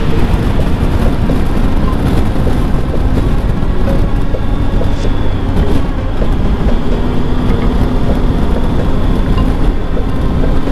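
Triumph Tiger 1200 motorcycle's three-cylinder engine running at a steady cruising speed, mixed with loud, steady wind and road rush.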